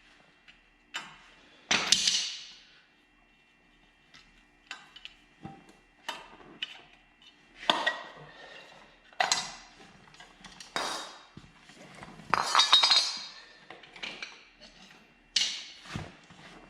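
Metal hand tools clinking and tapping on the truck's front brake rotor and hub while the rotor's retaining clips are worked loose. A dozen or so sharp, irregular metallic clinks, each with a short ring.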